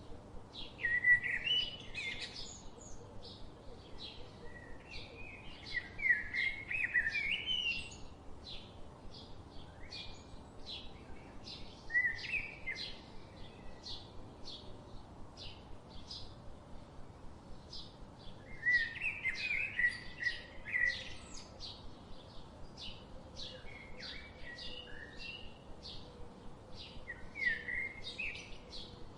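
Birds chirping and singing: a steady run of short, high chirps at about two a second, with louder warbling phrases every few seconds.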